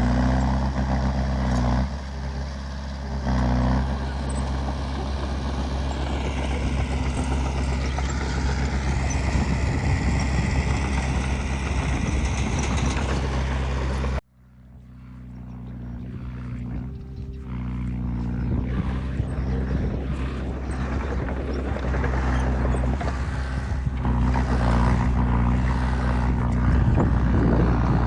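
Heavy diesel engine of earthmoving machinery running under varying load, its pitch gliding as the revs change. The sound drops out suddenly about halfway through, then builds back up.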